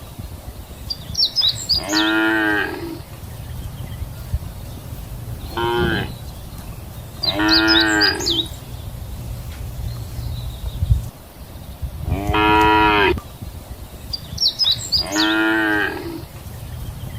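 Cattle mooing repeatedly: five drawn-out calls spaced a few seconds apart, with short high squeaks just before some of them and a steady low rumble underneath.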